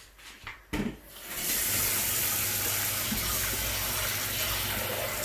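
A couple of light knocks, then a kitchen tap turned on about a second in, running steadily into the sink to wash lentils, with a low steady hum under the water.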